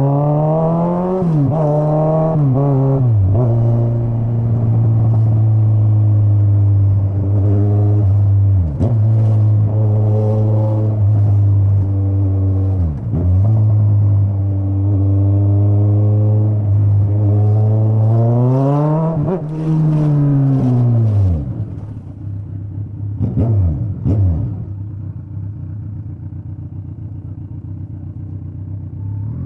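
Straight-piped Kawasaki Z900 inline-four motorcycle engine pulling through the gears, its pitch climbing and dropping sharply at each quick shift. Near the end it winds down and idles, with two short throttle blips.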